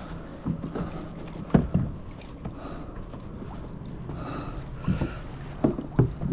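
Water sloshing against a kayak's hull, with several sharp knocks and thumps on the boat.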